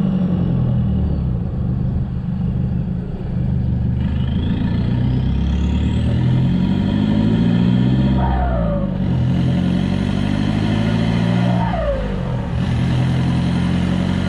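Toyota Hilux turbo diesel running through a muffler-delete exhaust while the ute accelerates. The engine note climbs, then drops sharply twice, about eight and twelve seconds in, as it changes gear, with a faint high whine rising as it pulls.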